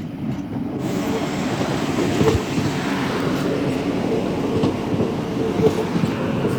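Passenger train running at the platform: steady rail and running noise with a faint steady hum, a brighter hiss joining about a second in.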